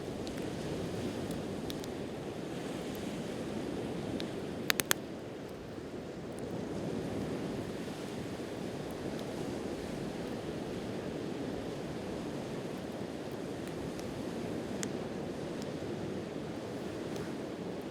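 Sea waves washing steadily onto the shore, swelling and easing, with a wood campfire crackling over it: three sharp pops in quick succession about five seconds in, and a few faint ticks elsewhere.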